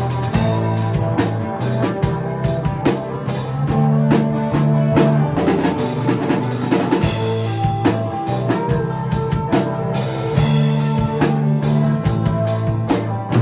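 A band playing an instrumental break of a country-rock song: a drum kit keeps a steady beat over held bass notes and chords, with no singing.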